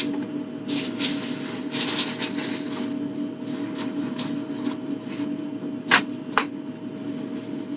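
Bottles and jars being handled and wiped during fridge cleaning: a couple of seconds of rustling and rubbing, then two sharp clacks of containers set down about six seconds in, over a steady low hum.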